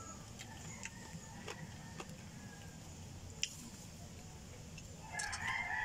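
A person chewing and biting fried chicken feet, heard as scattered small wet clicks and smacks, one sharper about three and a half seconds in. Near the end a rooster starts crowing.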